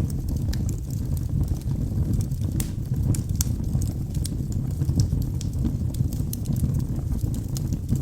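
Wood fire burning in a fireplace: a steady low rumble of flames with irregular sharp crackles and pops from the logs, several a second.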